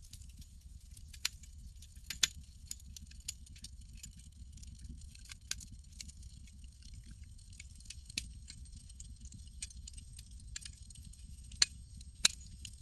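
Campfire crackling: irregular sharp pops and snaps over a low steady rumble, with two louder pops near the end.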